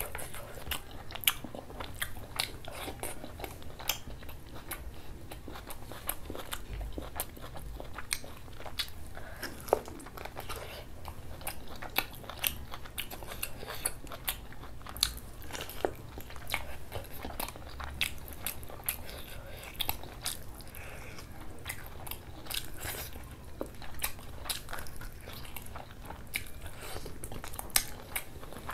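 Close-miked chewing and biting of a meat curry eaten by hand, with many short sharp mouth clicks and occasional crunches at an irregular pace.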